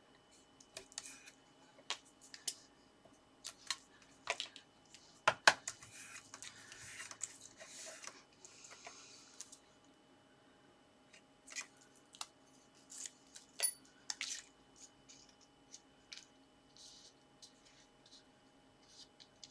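Card stock being handled and folded by hand: scattered light taps, clicks and paper rustles. A longer scraping rustle comes about six to nine seconds in.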